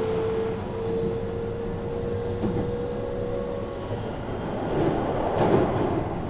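Keihan 3000 series train running, heard from inside the passenger car: a steady rumble of wheels on rail with a thin motor whine that rises slightly in pitch and cuts out about four seconds in. About five seconds in there is a brief louder rush.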